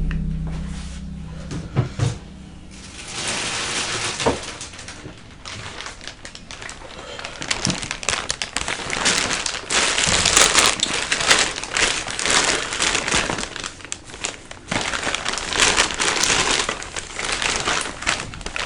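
Plastic burrito wrapper being crinkled and handled close to the microphone, in a long run of crackling that starts a few seconds in.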